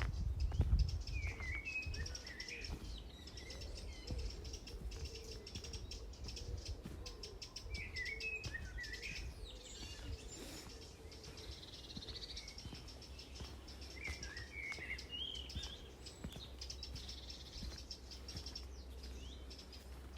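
Songbirds chirping in short bursts of phrases, three times, over a steady low rumble.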